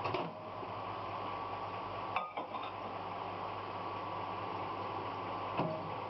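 Microwave oven running: a steady low hum with a faint high tone, broken by a few light clicks.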